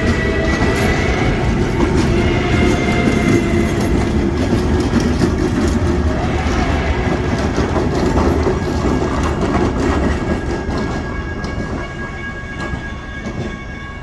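Excursion train running on the rails: a steady rumble and clatter of wheels over the track that eases off and fades in the last few seconds.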